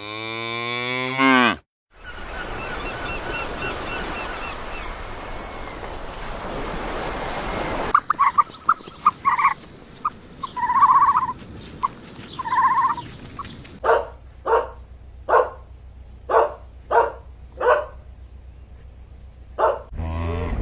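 A string of different animal calls: a long call rising in pitch, then a steady noisy stretch, then several short pitched calls, and finally a run of short sharp calls about two a second.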